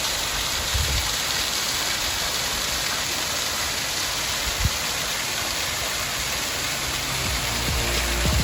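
Small waterfall rushing, a steady hiss of falling water. Background music fades in under it near the end.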